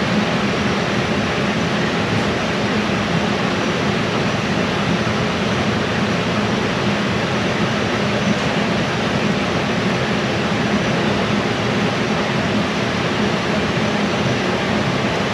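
Steady rushing air noise like a large fan running, with a low hum underneath, unbroken throughout.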